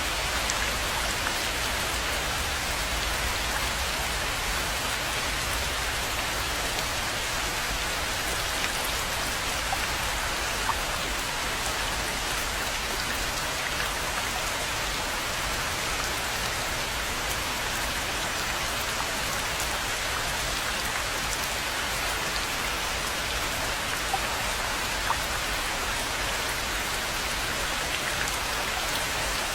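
Steady rain falling on a rainforest pond, an even hiss with a few single drops ticking out now and then.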